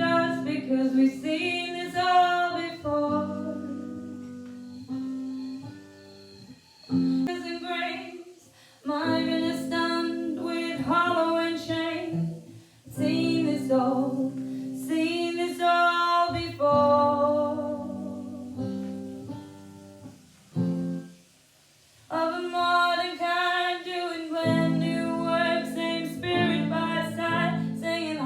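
A woman singing over acoustic guitar, in phrases of long held notes broken by a few short pauses.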